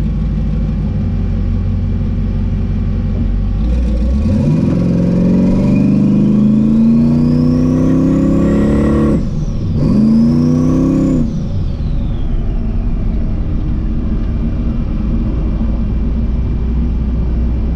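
Twin-turbo Camaro engine pulling hard off the line: the revs and a high whistle climb together, drop sharply about nine seconds in, climb briefly again, then fall away with a descending whine into steady lower running. Someone nearby said afterwards that the car was really unhappy on this run.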